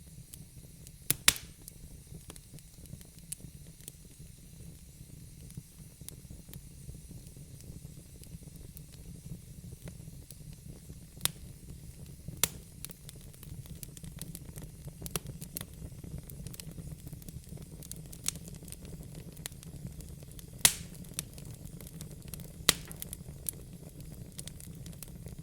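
Wood fire burning in a fireplace: a steady low flame rumble with a faint hiss, and sharp crackles and pops from the burning logs every few seconds.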